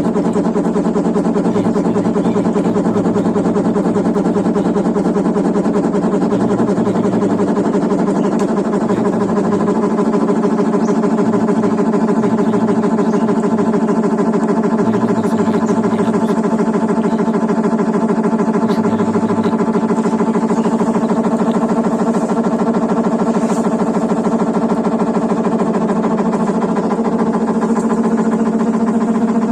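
Washing machine running with a loud, steady mechanical hum.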